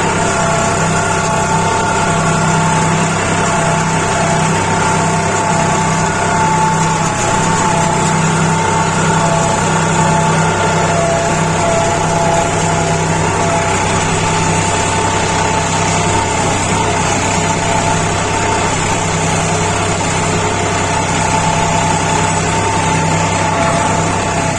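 New Holland 4710 tractor's three-cylinder diesel engine running at a steady, even pitch while working a five-tyne duck-foot cultivator.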